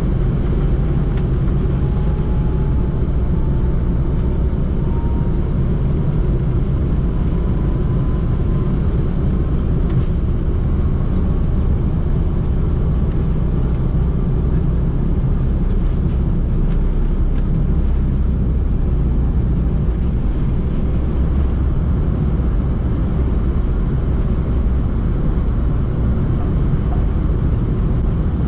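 Cabin noise of an Embraer E190-E2 airliner during takeoff: a loud, steady jet-engine rumble, with a faint whine that rises slowly in pitch over the first half.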